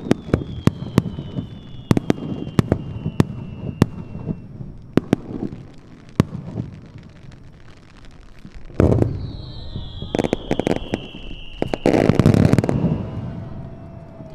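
Aerial fireworks display heard from afar: a rapid run of sharp pops and crackles with high whistles falling in pitch, then heavy booms of shells bursting about nine and twelve seconds in, the second the loudest.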